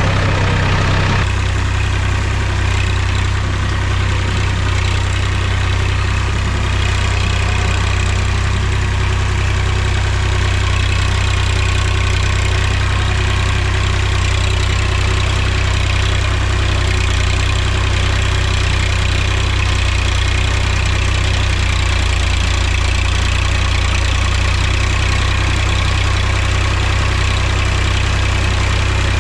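Mahindra tractor's diesel engine running at a steady speed, a deep even hum with no revving.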